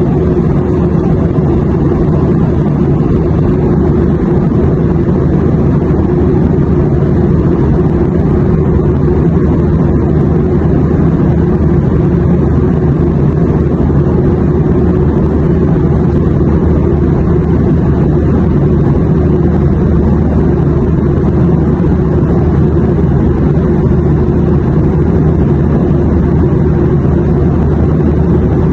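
Airliner cabin noise: a steady, loud, low rumble and hiss of a jet in flight.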